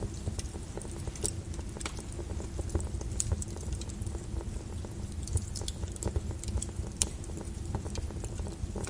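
Volcanic lava flow: a steady low rumble with irregular sharp crackles and pops scattered through it.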